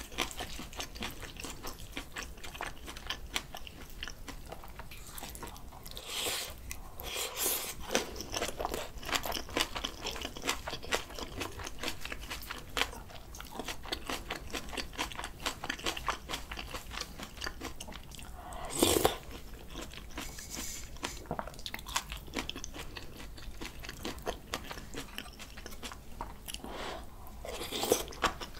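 Close-miked chewing of bibimbap mixed with crunchy raw spring cabbage and julienned radish, many small crunches and wet mouth clicks, with a few louder crunching bursts, the loudest about two-thirds of the way through.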